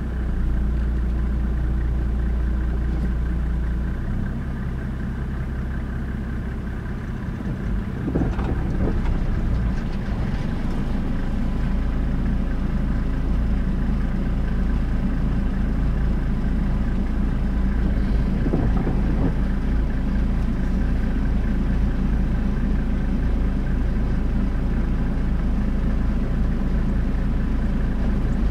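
Car engine running at low revs while the car reverses slowly, heard from inside the cabin as a steady low hum.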